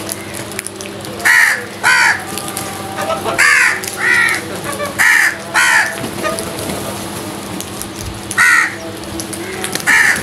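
Crows cawing: about eight loud, harsh caws, mostly in pairs about half a second apart, over a steady background hum.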